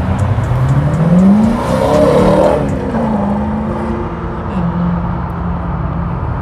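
Corvette's V8 revving hard as it accelerates past, its pitch climbing steeply over the first two seconds, then easing off and holding a steady drone.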